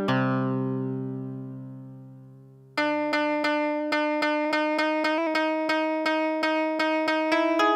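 Suiko VS-1 koto synthesizer playing a low note that dies away over almost three seconds. Then comes a fast run of repeated plucked, koto-like notes, about four a second, which keeps going.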